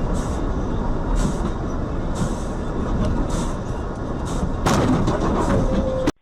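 Steady road and engine noise of a moving vehicle, with a few brief hissing sounds, louder from about five seconds in, then cutting off suddenly near the end.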